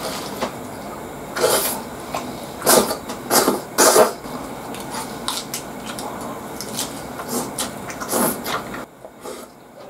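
Close-up chewing of a burger wrapped in crisp lettuce leaves, wet crunching with several loud crunches in the first four seconds and another about eight seconds in.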